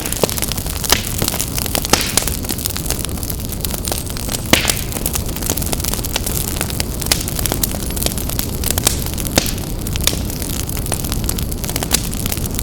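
Wood fire burning in a fireplace, crackling with frequent sharp pops over a steady low rush. One louder pop comes about four and a half seconds in.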